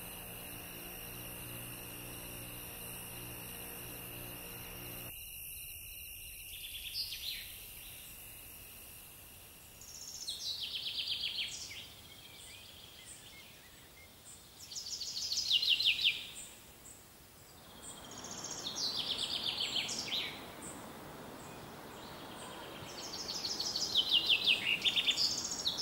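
A songbird singing short phrases of rapid notes that fall in pitch, one phrase about every four seconds, over faint outdoor background noise. Before the song starts, a steady hum and hiss cuts off suddenly about five seconds in.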